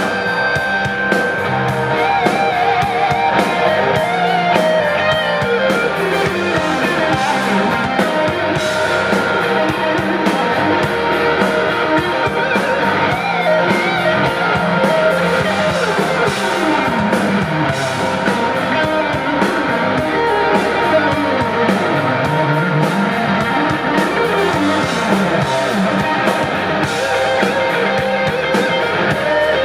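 Live rock band playing an instrumental break: an electric guitar lead with bending, gliding notes over a steady drum beat and bass, without vocals.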